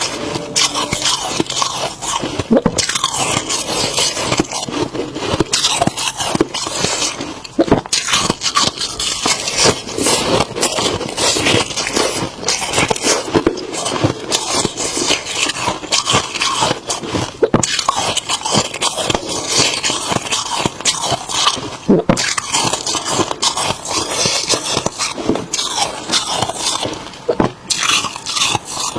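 Freezer frost being bitten and chewed close to the microphone: a dense, continuous run of crisp crunches.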